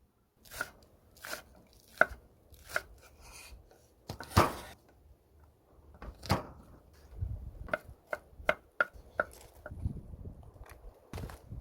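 Kitchen knife chopping on a cutting board in unhurried, irregular strokes, one heavier stroke about four seconds in and a quicker run of strokes in the second half.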